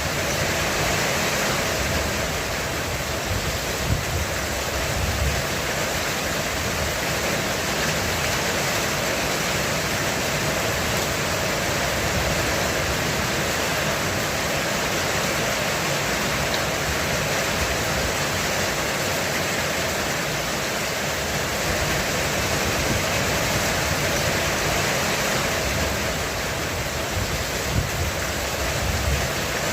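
Heavy rain pouring steadily on a roof, with low rumbles of thunder about four seconds in and again near the end.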